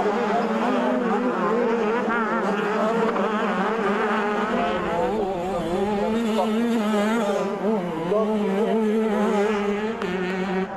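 Several 85cc two-stroke motocross bikes racing, their engines revving up and down and overlapping in pitch.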